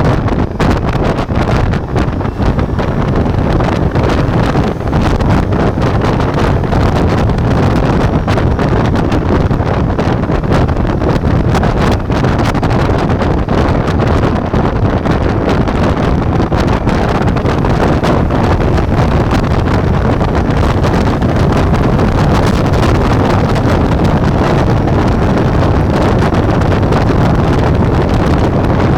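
Wind buffeting the action camera's microphone while riding a Ducati Multistrada V4, with the bike's V4 engine running underneath at a steady cruise. The level stays even, with no clear revving up or down.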